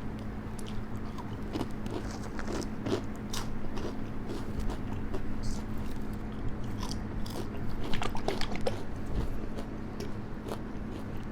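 A person biting and chewing food close to the microphone, with many small crunches and wet mouth clicks, busiest around two to three seconds in and again near eight seconds. A fan hums steadily underneath.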